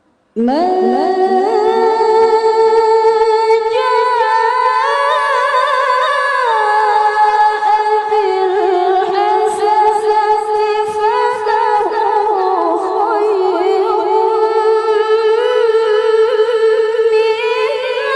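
A woman reciting the Qur'an in the melodic tilawah style. Her high, clear voice starts about half a second in and carries one long ornamented phrase on a single breath, with the pitch stepping upward, then sliding lower.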